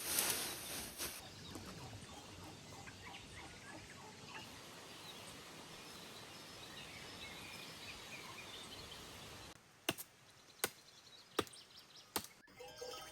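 Outdoor farm ambience: a brief rush of noise at the start, then a steady hiss with scattered small bird chirps. After a cut about ten seconds in come four sharp knocks, evenly spaced under a second apart.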